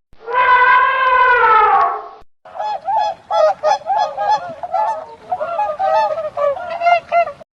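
Geese honking: one long drawn-out honk that sags slightly in pitch, then after a short gap a quick run of honks, several a second, that stops abruptly near the end.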